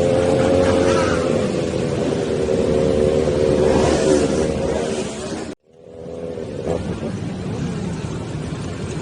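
Motorcycle engine running at a steady, slightly easing speed under way, over a haze of wind and road noise. A little past halfway the sound cuts out abruptly and comes back a moment later.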